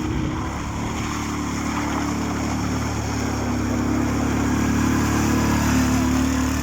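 ATV (quad bike) engine revving hard and steadily under load, slowly getting louder.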